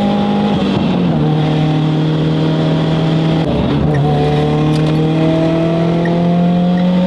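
Car engine under way with a steady drone. Its pitch steps down twice, about a second in and again near four seconds, as it shifts up a gear, then climbs slowly as the car gathers speed.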